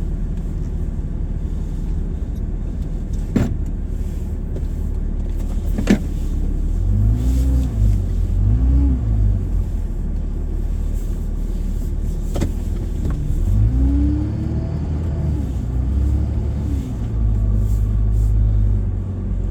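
Vehicle engine running while backing up, its pitch rising and falling several times as it revs up and eases off. Three sharp knocks stand out, one a few seconds in, one at about six seconds and one past the middle.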